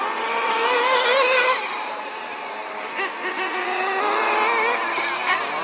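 Several high-revving small engines of offroad vehicles on a track, their pitch rising and falling as they accelerate and back off, loudest about a second and a half in.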